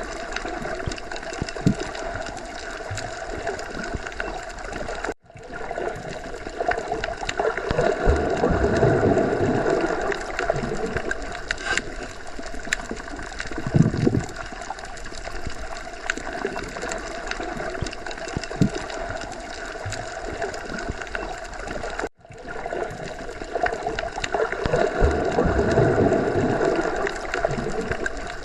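Underwater sea ambience: a continuous watery, gurgling rush with slow swells of deeper sound. It cuts out for an instant about five seconds in and again about 22 seconds in, where the recording loops and repeats.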